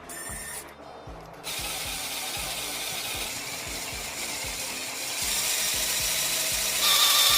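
A workshop power tool starts about a second and a half in with a steady, high, noisy sound that grows louder in two steps, and a whine joins it near the end. Music with a beat plays underneath.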